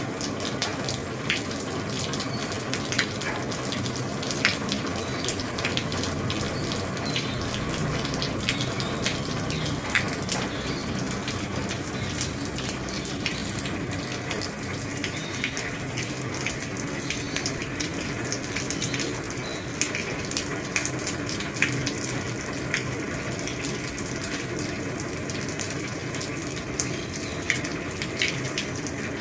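Heavy rain falling on an old roof: a steady hiss with many sharp individual drop impacts.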